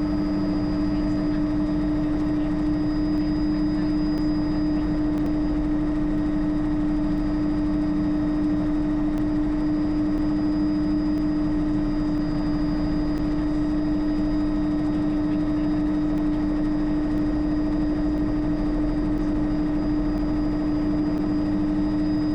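Bell JetRanger helicopter's turbine engine and rotors running steadily, heard from inside the cabin. A constant whine holds one pitch over an even rumble.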